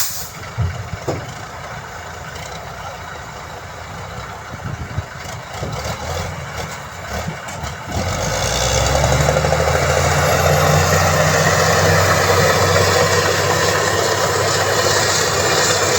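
Heavy diesel engine of earthmoving machinery idling with a few knocks, then about halfway through it opens up and runs loud and steady, as if pulling under load.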